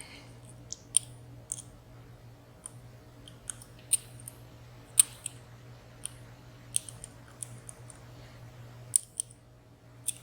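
Small, sharp clicks of a lock pick working the sliders inside a WSW W10 high-security padlock, about a dozen at irregular intervals as the picker tries to set slider 5.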